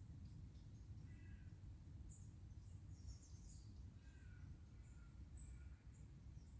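Faint woodland birdsong: scattered short, high chirps from small birds, with a few lower calls about a second in and again past the middle, over a steady low background rumble.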